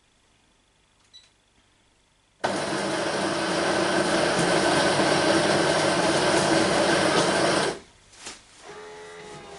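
An electric coffee grinder running loud and steady for about five seconds, starting and stopping suddenly.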